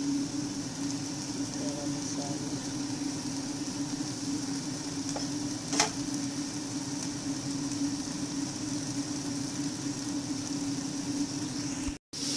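Food sizzling in a frying pan, a steady hiss over a constant low hum, with one sharp utensil clink about six seconds in. The sound cuts out abruptly for a moment near the end.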